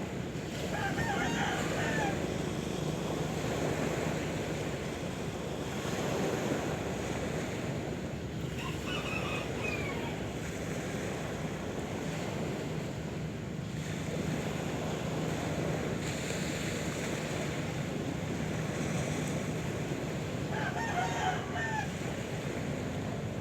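Sea waves washing steadily, with a rooster crowing about a second in and again near the end. A shorter call comes about nine seconds in.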